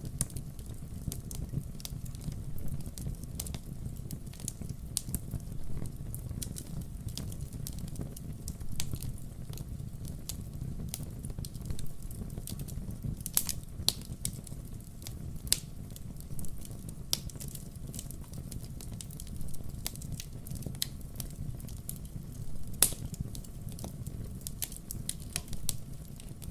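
Wood fire crackling: irregular sharp snaps and pops over a low, steady rumble.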